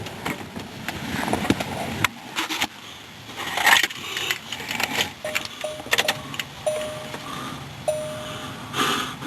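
A car's warning chime sounds with the jumper box connected to a dead battery: first a few short broken beeps, then longer steady tones about a second apart from about five seconds in. Clicks and rustling from handling in and around the driver's seat come and go.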